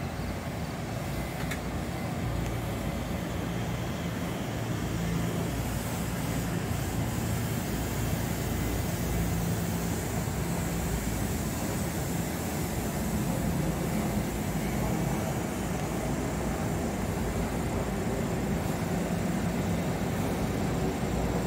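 Metro-North electric commuter train rolling past on the far track: a steady rumble of wheels and running gear, growing slightly louder.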